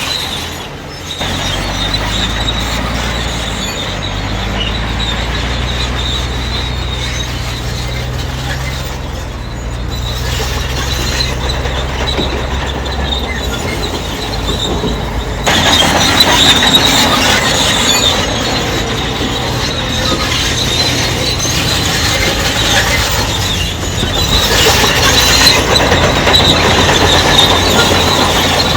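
Crawler bulldozer at work: its diesel engine runs under a steady high-pitched squeal of steel tracks. About halfway through the sound grows louder and harsher.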